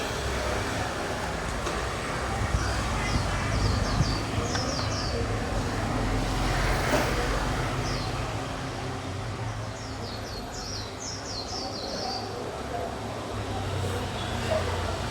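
Steady rumble of street traffic, swelling briefly about halfway through, with several bursts of rapid high chirping from a bird.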